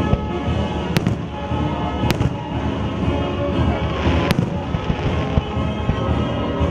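Fireworks bursting, with three sharp cracks about one, two and four seconds in over continuous low booming, all under the show's music soundtrack.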